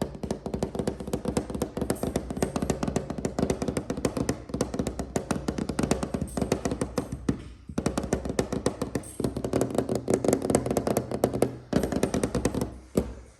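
Fast, continuous tapping on a hard, resonant object that rings with a steady low tone under the taps, in long runs broken by a few brief pauses.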